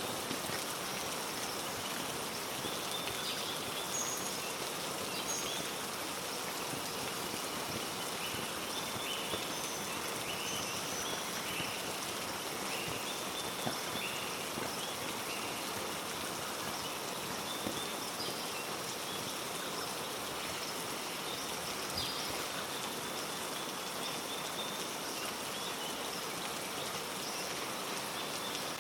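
Steady heavy rain falling in rainforest, with short high chirps scattered through it.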